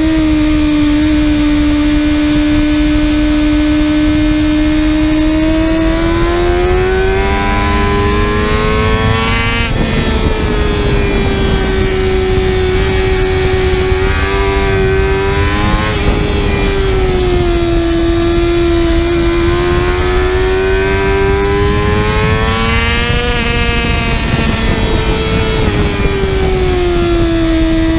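Kawasaki ZX-6R's 636 cc inline-four engine running at high revs, its pitch climbing and falling with the throttle. There is a sudden drop in pitch about ten seconds in and a long fall near the end.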